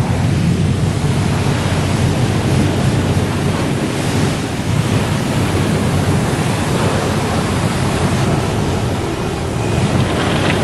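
Car wash running: a steady, loud rushing noise with a low hum underneath.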